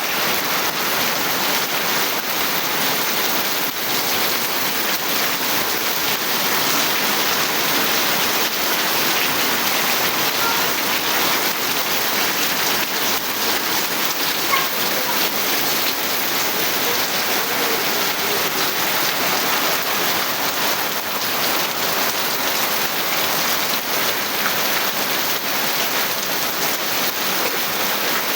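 Steady heavy rain falling on surfaces, a dense even hiss of drops with no letup.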